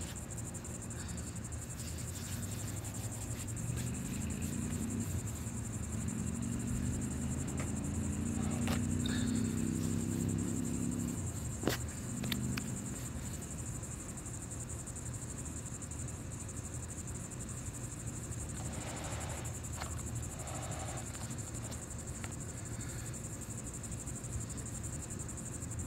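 Crickets or other insects chirring steadily and high-pitched over a low outdoor rumble. A low engine hum swells and fades from a few seconds in to about eleven seconds in, and a single sharp click comes near its end.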